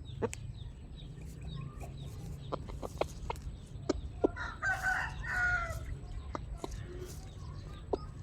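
Chickens calling softly, with a longer drawn-out call about halfway through and scattered sharp ticks between the calls, over a steady low hum.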